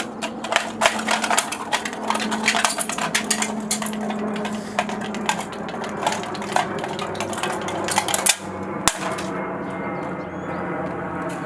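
A metal knife blade tapping, scraping and clinking hard against a phone: a rapid run of sharp clicks and knocks, with one sharper knock near the end, then calmer. The heated knife is making little headway on the phone.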